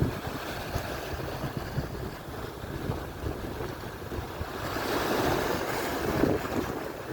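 Atlantic surf breaking and washing on the shore, swelling louder about two-thirds of the way through as a wave comes in. Wind rumbles on the microphone underneath.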